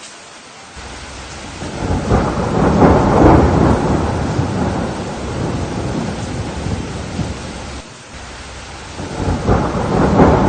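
Steady rain with rolling thunder: a rumble swells about two seconds in and slowly fades, then a second roll builds near the end.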